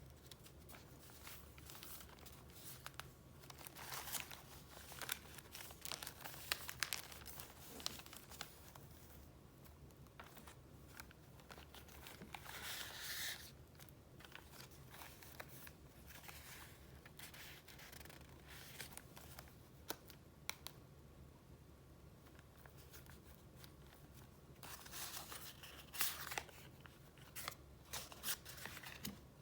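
Quiet rustling and crinkling of paper being handled and flipped through, with small taps and ticks; longer rustles come about twelve seconds in and again near the end.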